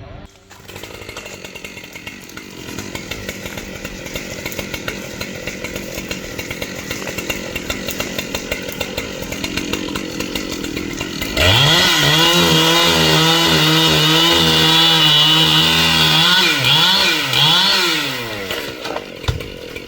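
Chainsaw engine: a lower, steady running sound that slowly grows louder. About eleven seconds in, the saw is opened to full throttle and holds a high, steady scream. Near the end the revs drop and climb a few times before it falls back.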